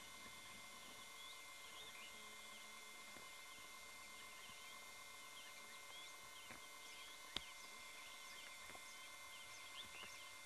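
Near silence with faint, scattered bird chirps over a steady hiss, and a single sharp click about seven seconds in.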